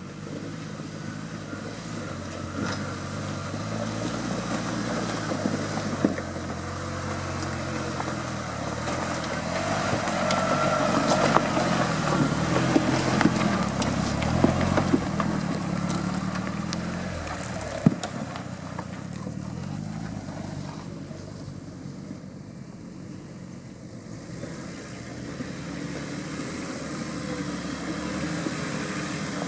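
Off-road competition vehicle's engine revving, rising and falling in pitch, building to its loudest midway and then easing off, with a few sharp knocks.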